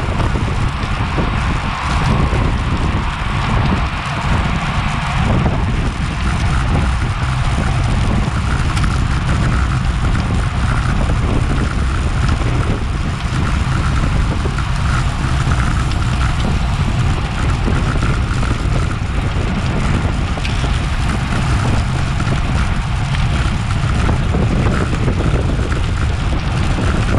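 Wind rushing and buffeting over a bike-mounted Garmin VIRB action camera's microphone at racing speed, steady throughout, with road noise from the bicycle mixed in.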